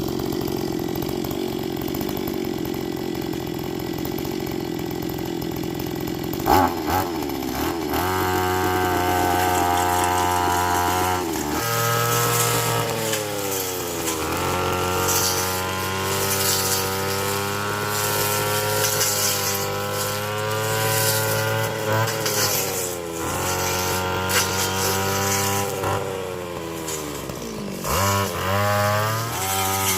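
Small petrol engine running steadily. From about six seconds in, its pitch repeatedly dips and recovers, as an engine labouring under load does.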